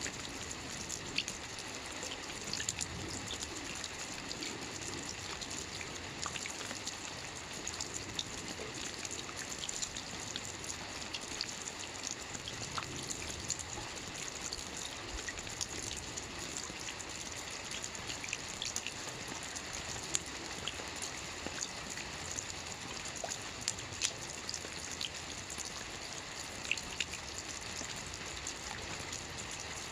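Gentle light rain falling steadily, a soft even hiss with many small scattered drop ticks and no thunder.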